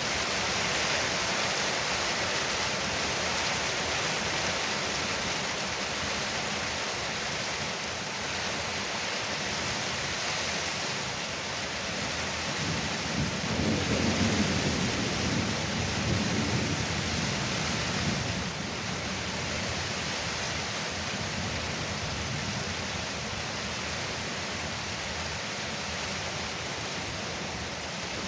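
Heavy rain falling on a porch roof, a steady hiss throughout. About halfway through, a low roll of thunder rumbles for several seconds and fades.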